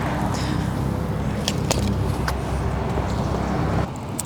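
Steady rumble of a motor vehicle engine running, with a few light clicks; it cuts off abruptly near the end.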